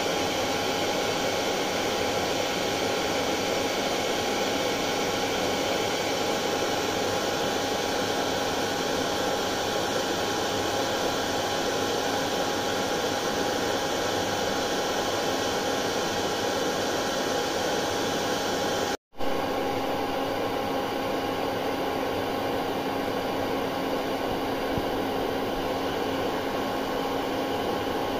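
Hair dryer running steadily: an even rushing blow of air with a faint steady whine in it. It cuts out for an instant about two-thirds of the way through, then carries on.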